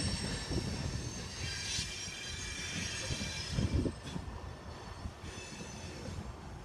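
Freight train of grain cars rolling past, the rumble slowly fading, with a faint high-pitched squeal from the wheels.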